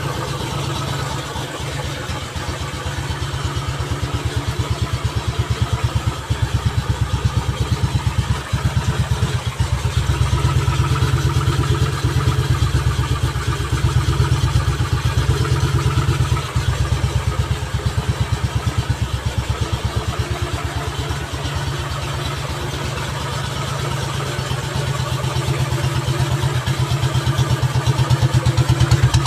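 Old motorcycle engine running, its rapid even firing pulses steady throughout, getting louder for a while several times and again near the end.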